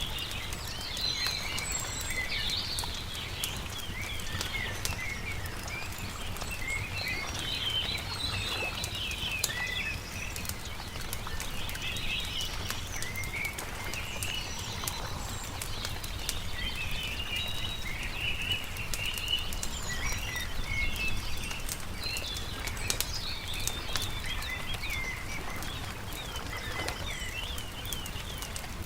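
Several birds singing, with short chirps and trills throughout, over scattered crackles and pops from a campfire and a steady low rumble underneath.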